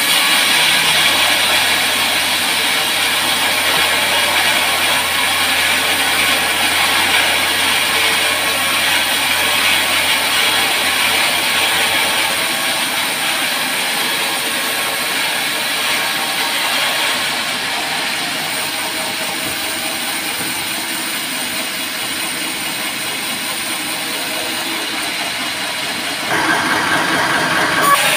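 Band sawmill blade cutting through a teak log, giving a steady, loud, hissing saw noise with a machine hum under it. The noise turns louder and harsher about two seconds before the end.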